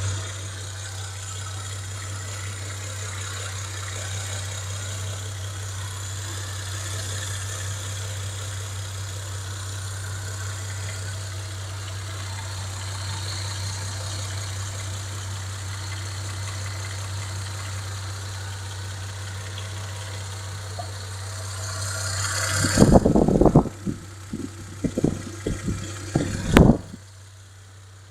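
Car engine running steadily, an engine the owner diagnoses with knocking connecting-rod bearings and a noisy power-steering pump. Near the end, several loud low thumps over a few seconds, then the sound drops to a quieter steady hum.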